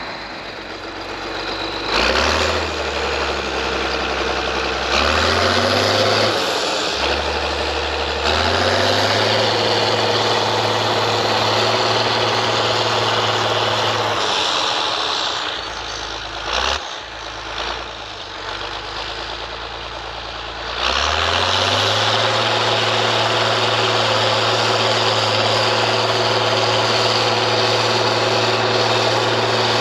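International TD15C crawler dozer's DT466 diesel engine running, revving up in steps a few seconds in and holding at higher revs, easing off for several seconds past the middle, then revving up again and holding. A single sharp knock comes as the revs are down.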